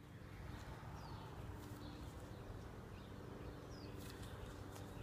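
Faint outdoor ambience with a low steady hum and a few short, high bird chirps that drop in pitch.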